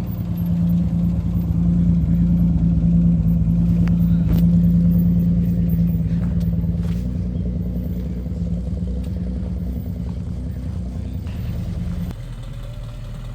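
A car engine running close by, getting louder over the first two seconds and then slowly fading. Its sound drops off suddenly near the end.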